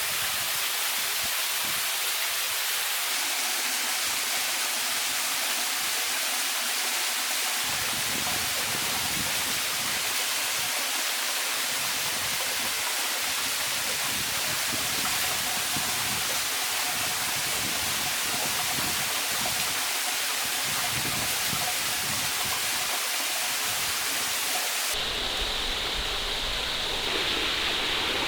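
Waterfall rushing, a steady, even roar of falling water. Its tone changes abruptly about 25 seconds in, turning brighter and fuller in the bass.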